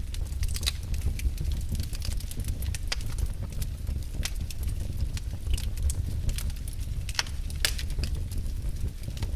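Wood fire burning in a fireplace, crackling with irregular sharp pops and snaps over a steady low rumble of flame.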